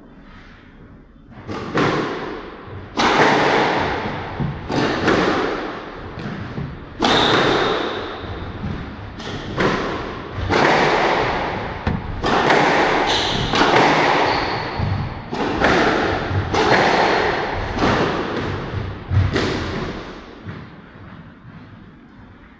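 Squash rally: the ball struck by rackets and thudding off the court walls about every second and a half, each hit echoing in the court, until the rally stops a little before the end.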